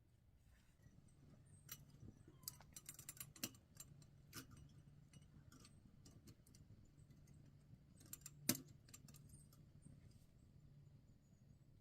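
Quiet, irregular clicks and light metallic clinks: a cluster of them in the first half, and one sharper click a little after the middle.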